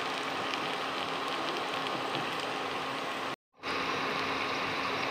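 Elephant foot yam slices and fresh curry leaves frying in sunflower oil in a non-stick pan: a steady sizzle with small crackles. It cuts out to silence for a moment about three and a half seconds in, then resumes.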